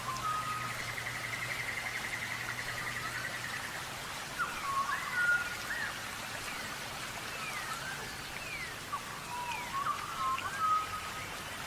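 Small birds calling: a rapid trill for the first few seconds, then a run of short whistled notes sliding up and down, over a steady background hiss.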